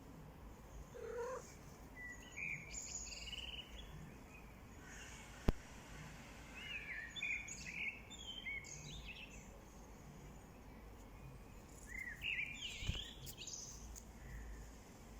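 Small birds chirping in three short bouts of quick, rising and falling notes over a faint low background rumble. A single sharp click comes about five and a half seconds in.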